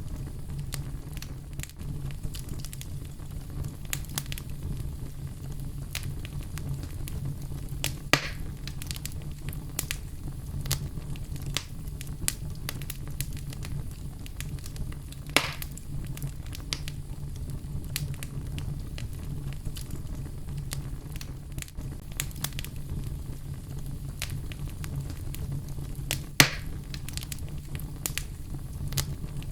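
Wood fire burning in a fireplace: a steady low rumble of flames with constant small crackles and three louder pops, about 8, 15 and 26 seconds in.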